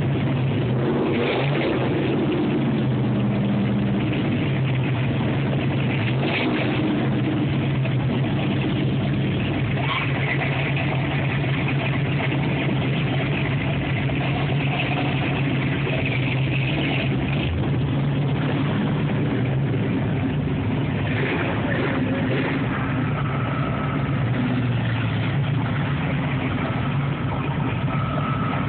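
Car engines running with a steady low rumble as cars drive slowly past, one after another.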